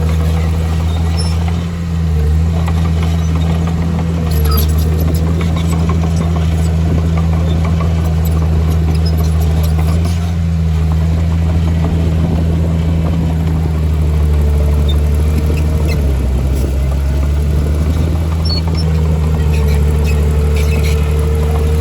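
Heavy diesel engine of earthmoving machinery running steadily under work. Its pitch dips briefly a few times.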